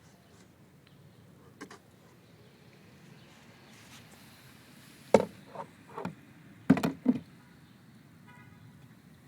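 A few sharp knocks and thumps: a single knock about five seconds in, followed by two softer ones, then a quick cluster of hard knocks about a second later, with a faint tick earlier on.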